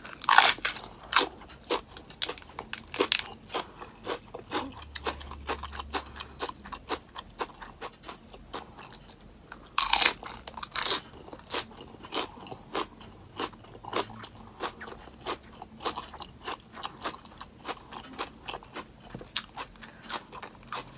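Crisp lettuce-wrapped plant-based burger being bitten and chewed: two loud crunching bites, one just after the start and one about halfway, with steady wet chewing and lettuce crunch between them.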